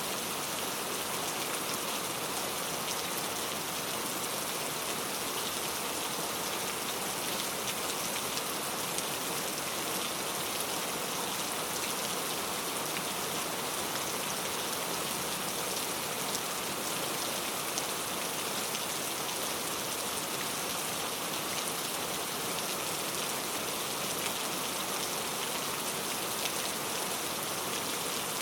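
Steady rain falling, a dense even hiss of drops with fine scattered patter.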